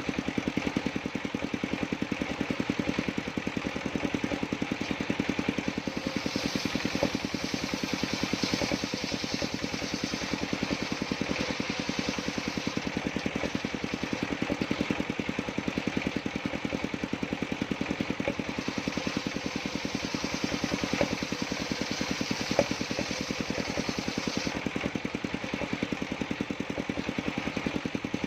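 Engine of a sawmill circular-saw rig running steadily, with a fast, even pulse. A higher hiss joins from about six seconds in until about twenty-four seconds in.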